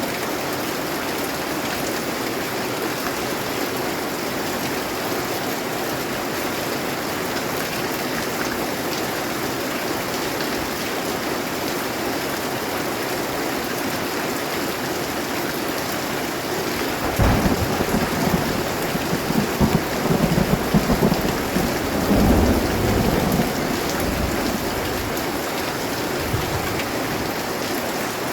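Steady rain hissing, with a roll of thunder that comes in a little past halfway, rumbles deep and heavy for several seconds, then fades back into the rain.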